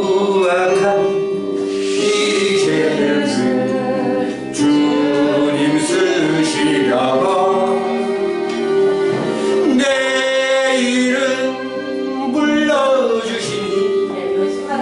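Korean gospel praise song: sustained sung melody over instrumental accompaniment.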